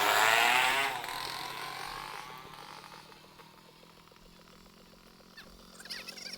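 A motor vehicle's engine running and fading away over a few seconds as it moves off, leaving faint street noise.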